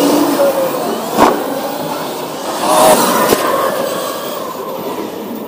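Electric RC monster trucks driving on hard ground: a steady mix of motor whine and tyre noise, with a short rise in pitch midway and two sharp knocks, the first about a second in.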